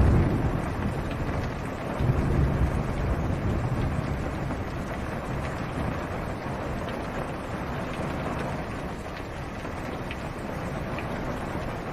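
Steady rain falling on a car's roof and windshield, heard from inside the car, with low thunder rumbling at the start and again about two seconds in before fading.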